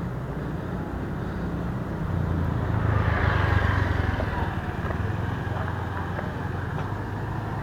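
Road traffic running steadily, with one vehicle passing close and loudest about three seconds in.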